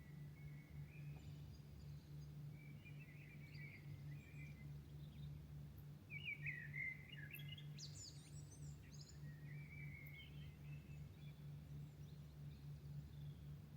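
Several birds singing in short, scattered chirping and warbling phrases, the loudest burst about halfway through. A steady low hum runs underneath.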